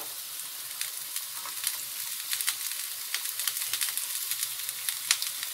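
Strips of raw beetroot frying in hot olive oil in a frying pan: a steady sizzle with many small crackles, as more strips are tipped in from a bowl.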